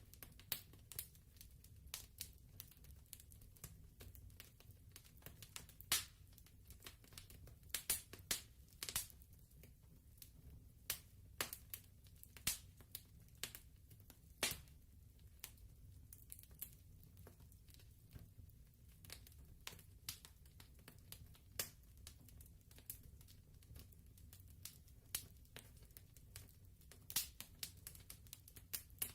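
Wood fire crackling softly, with irregular sharp pops and snaps at uneven intervals over a low steady rumble.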